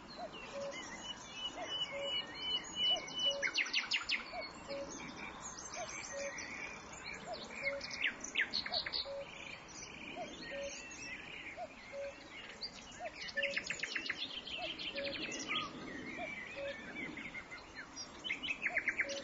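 Several wild birds singing and calling, with rapid trills and whistled notes, over a short low note repeated evenly about every three-quarters of a second. It all cuts off abruptly at the end.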